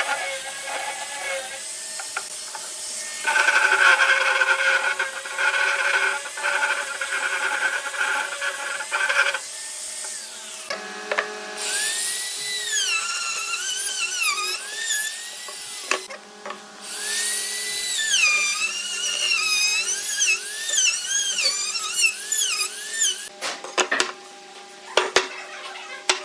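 A small high-speed power tool, such as a drill, working wood, its whine rising and falling in pitch again and again. The sound changes abruptly several times, and sharp clicks or knocks come near the end.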